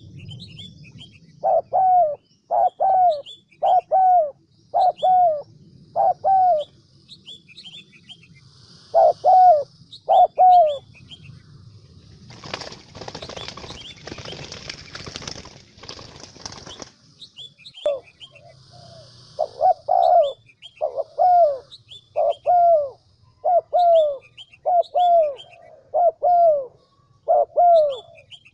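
Spotted dove decoy cooing: short low coo notes repeated in quick runs, with a break in the middle filled by about four seconds of noisy rustling flurry, like wing flapping. Small birds chirp faintly and high above the cooing.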